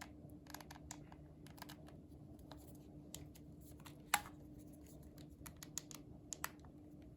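Scattered light clicks and taps of hands handling the plastic handset and its packaging, with one sharper click about four seconds in, over a faint steady hum.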